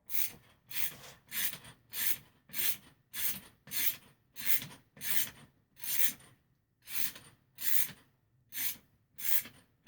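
Ratchet wrench unscrewing a Yamaha Virago fork's spring-loaded top cap bolt: about fourteen short rasping strokes, roughly one every two-thirds of a second, slowing slightly near the end.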